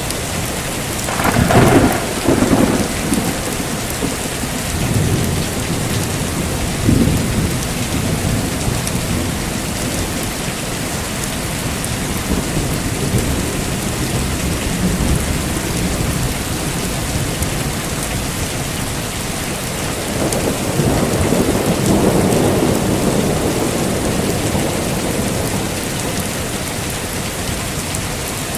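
Heavy rain falling steadily, with a burst of thunder about a second and a half in and a longer rolling rumble of thunder about twenty seconds in.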